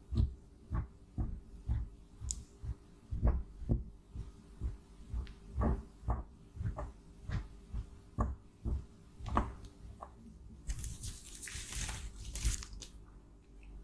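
Cosmetics being crushed and broken up: a run of soft taps or presses about two a second, then about two seconds of scraping crunch near the end.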